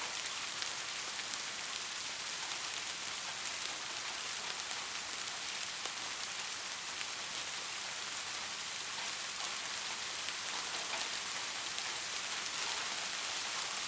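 Steady rain falling, a dense even hiss with many small drops ticking through it.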